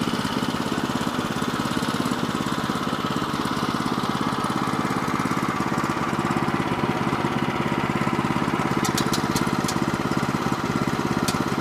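Small gas engine of a Woodland Mills HM122 portable bandsaw mill running steadily at idle, the blade disengaged through its centrifugal clutch between cuts. A few sharp clicks come near the end.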